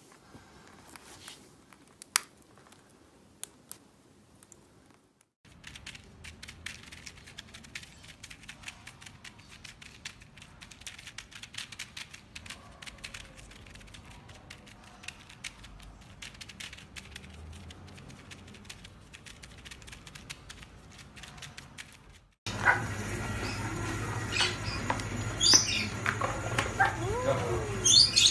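Pet parrot sounds: faint clicks, then a long stretch of dense fine clicking and scratching. About 22 seconds in, louder chirps and whistling calls that rise and fall start up over a steady low hum.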